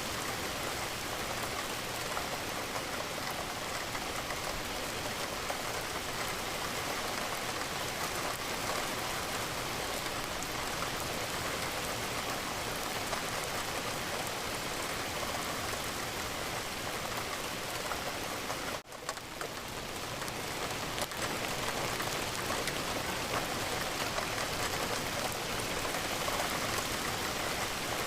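Steady rain falling against a window. About two-thirds of the way through it briefly drops out, then swells back.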